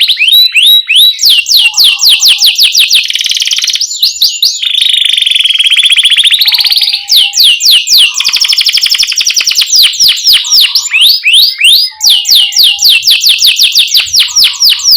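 Domestic canary singing: rapid, repeated sweeping 'cuit cuit' chirps alternating with long rolling trills ('ngerol'), loud and continuous.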